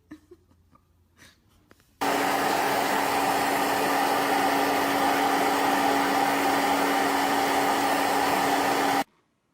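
A small electric appliance motor running steadily with a hum and a rush of air. It starts suddenly about two seconds in and cuts off suddenly near the end.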